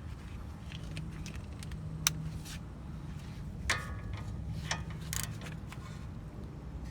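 A few sharp metallic clicks and clinks from hand tools on the CV axle nut, which is being tightened further to line up the cotter pin hole. A short ringing metal clatter comes a little before the middle, all over a steady low hum.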